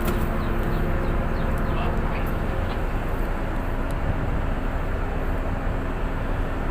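Tugboat's diesel engine running with a steady low drone.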